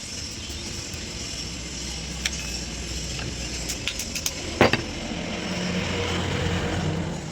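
Scattered small clicks and one louder knock about two-thirds of the way in, over a steady low rumble of background noise.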